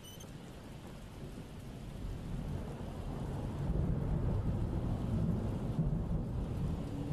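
Rain falling with a low rumble of thunder that grows louder a couple of seconds in and keeps rolling.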